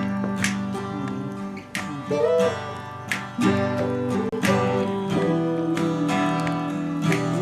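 Acoustic guitar strummed, its chords ringing on between strums at an easy, uneven pace, opening a praise song.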